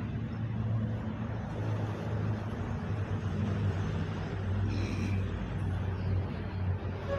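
A motor vehicle engine runs with a steady low hum throughout. A brief high-pitched sound comes about five seconds in.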